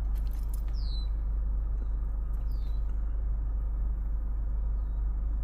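Steady low rumble, with a small bird giving short, high chirps that glide downward, twice and then once more faintly near the end.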